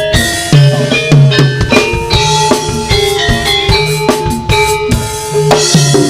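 Live jaranan (Javanese horse-dance) band music: a steady drum pattern with a melody of held notes stepping up and down over it.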